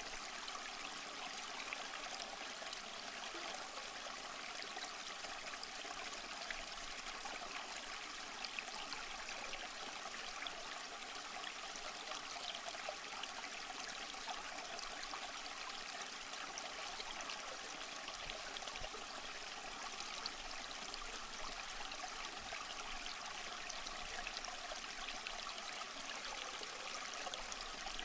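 Small stream flowing and trickling over rocks, a steady, even rush of water without breaks.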